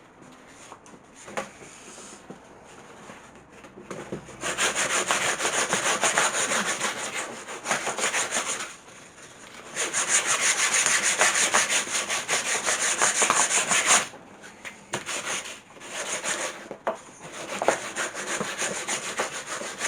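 A strip of old sanding belt is pulled back and forth around a round pine table leg, giving fast, rasping abrasive-on-wood strokes. It is light at first, then comes in two long, loud spells of a few seconds each, then shorter bursts near the end.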